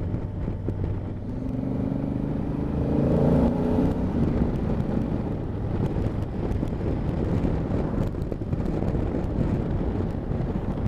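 Honda Africa Twin motorcycle engine running under way, with wind and road noise on the helmet microphone. About two seconds in, a louder engine note swells and rises slightly, then settles back into the steady cruise.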